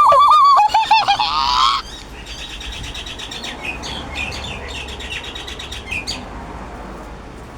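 Birds calling: a loud, wavering, repeated call for the first two seconds, then quieter rapid chattering notes that stop about six seconds in.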